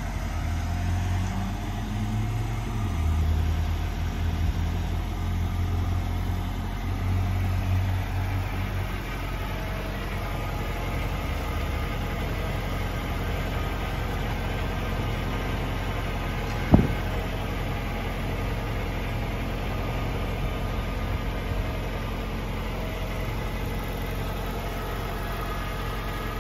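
Car engine idling steadily, with a low hum whose pitch shifts a little in the first several seconds. One sharp click about two-thirds of the way through.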